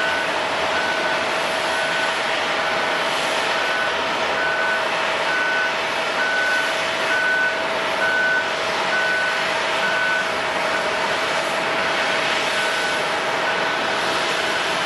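A vehicle's reversing alarm beeping about twice a second, its beeping pausing for about two seconds near the end and then resuming, over a steady wash of airport apron noise with a constant hum.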